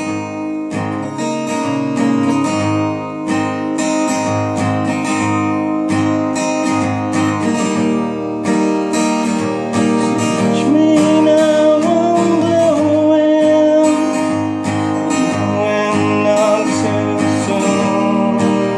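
Acoustic guitar strummed in a steady rhythm: an instrumental passage of a ballad, with a held melody line over the strumming around the middle.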